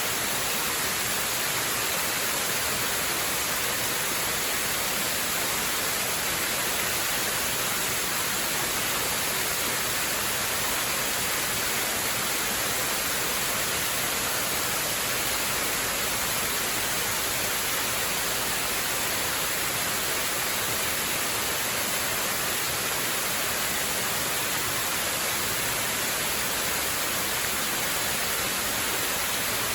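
Waterfall: a steady, unbroken rush of falling water, with the hiss strongest in the high range.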